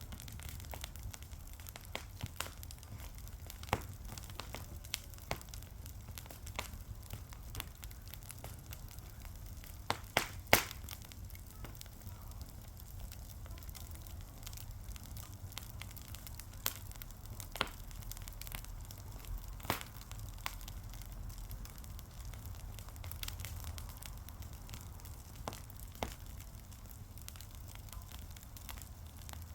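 Wood fire crackling, with irregular sharp pops and snaps over a low rumble; the loudest is a quick cluster of pops about ten seconds in.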